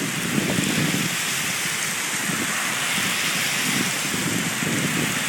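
Heavy rain pouring steadily in a thunderstorm, with the tyres of passing cars swishing through water on the wet road.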